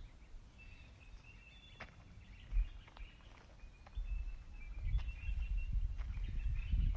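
Birds calling with short, high chirps and whistles, over a low wind rumble on the microphone that grows stronger about four seconds in.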